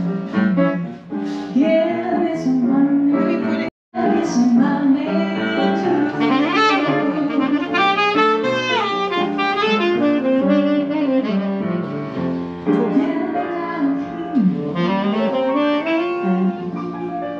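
Jazz music with a saxophone playing the lead line. The sound cuts out for an instant about four seconds in.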